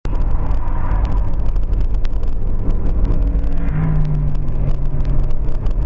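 Car driving, with steady engine and road noise. It cuts in abruptly, and a low steady hum stands out for about two seconds near the end.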